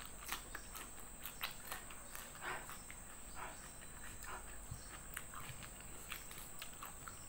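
Close-up eating sounds: chewing, with many soft clicks and smacks of the mouth, over a steady high-pitched insect drone.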